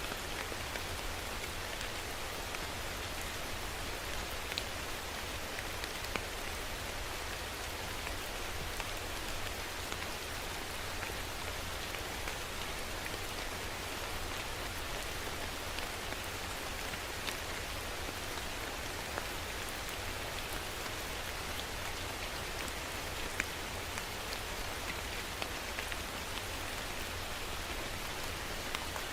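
Steady rain falling, a dense even hiss with many separate drops ticking on a surface, over a low rumble.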